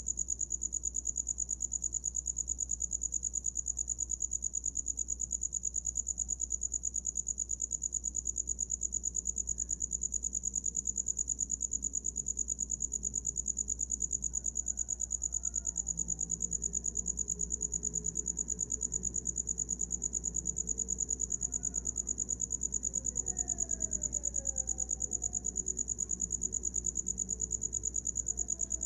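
Cricket chirping without a break: one high, steady-pitched trill made of rapid, even pulses.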